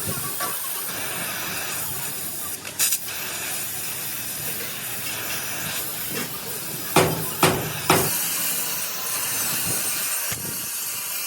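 A steady hiss of workshop work, with three sharp knocks about seven to eight seconds in.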